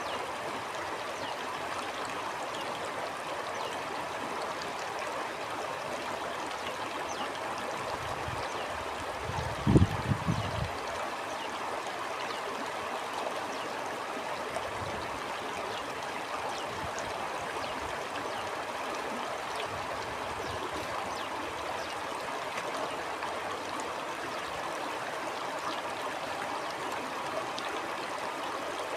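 Stream water flowing and gurgling in a steady rush. A brief low rumble about a third of the way in stands out as the loudest moment.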